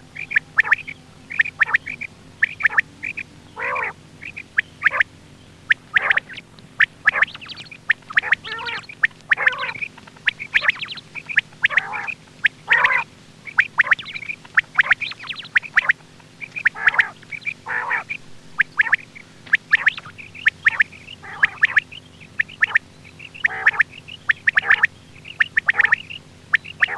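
Quail calling over and over in short, sharp notes, one to three a second without a break: the repeated call used to lure quail when hunting.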